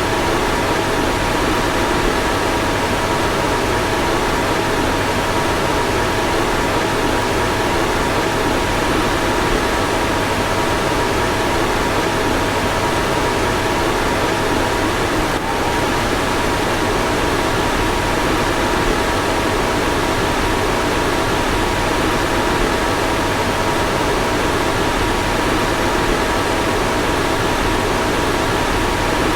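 A car's fan running steadily: an even rushing of air with a couple of faint steady tones under it.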